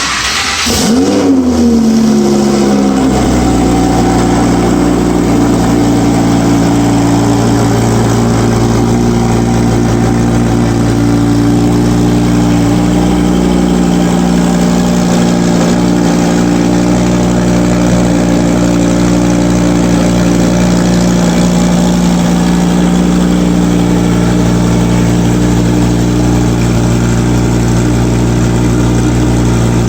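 Audi R8's 5.2-litre V10 with an aftermarket Capristo exhaust starting up: the revs flare in the first second, then drop over the next two seconds to a steady, loud idle that holds for the rest of the time.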